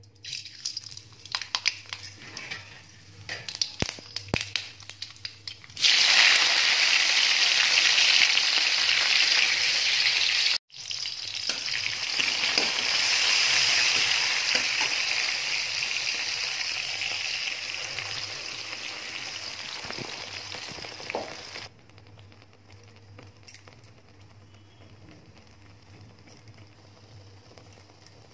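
Mustard seeds crackling and popping in hot oil in a pan. About six seconds in, a loud sizzle starts suddenly as more ingredients hit the oil, and it slowly fades. The last several seconds are much quieter, with only faint sizzling.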